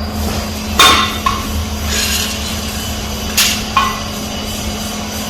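Metal clanking: two sharp strikes on steel parts, each ringing briefly and followed by a lighter clink, over a steady workshop hum.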